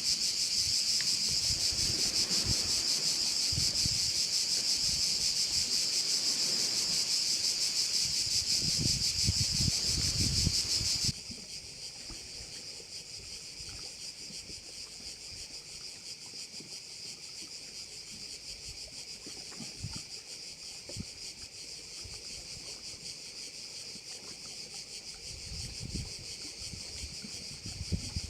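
Steady, dense high-pitched chorus of crickets that drops abruptly to a quieter level about 11 seconds in and then carries on, with low rumbles of wind on the microphone now and then.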